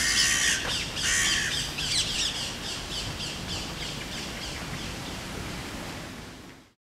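Birds calling: two loud, harsh calls in the first second and a half, then a run of quicker, fainter high calls, fading out just before the end.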